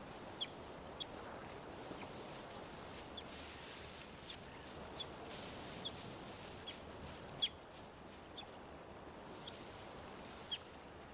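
River otters chirping: short, sharp, high squeaks at irregular intervals, one louder near the middle, over the steady sound of river water.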